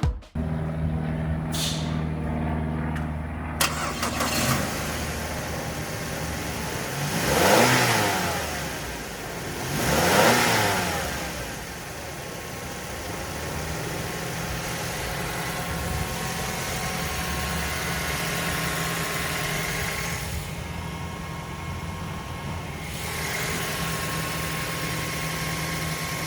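2007 Mazda 3's four-cylinder engine idling steadily under test, revved twice in quick succession about a third of the way in, each rev rising and falling back to idle.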